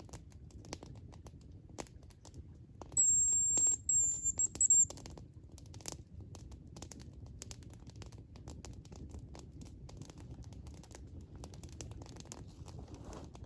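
Campfire crackling with scattered pops over a low murmur; about three seconds in, a thin high whistle in the hazel grouse call pattern, one held note then a few short ones, lasting under two seconds.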